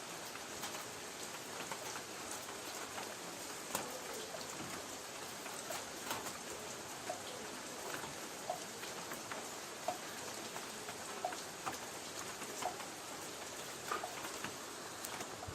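Light rain pattering on a tin roof: a steady hiss with scattered individual drops ticking sharply on the metal, some with a short ring.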